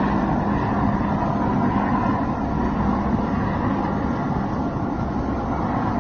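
Boat engine running steadily, a constant hum and rumble with noise of wind and water mixed in.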